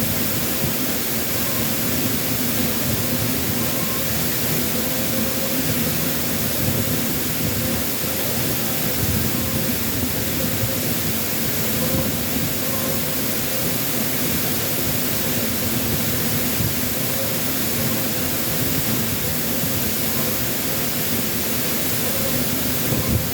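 Waterfall swollen after a typhoon, pouring heavily: a loud, steady rush of falling water with no let-up.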